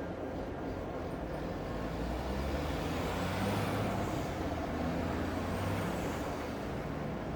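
City ambience with a vehicle passing: a low rumble and a hiss that swell through the middle and ease off near the end, with a faint high whine that rises and falls.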